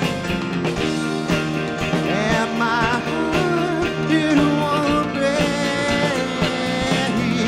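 A live rock band playing: a man sings, holding wavering notes in the middle, over a Nord Piano 4 stage piano, electric guitar, bass and drums.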